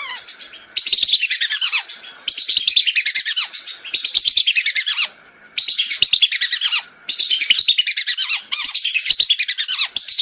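Whistling ducks (belibis) calling: rapid runs of high whistled notes, each sliding down in pitch, coming in bouts of about a second with short breaks between.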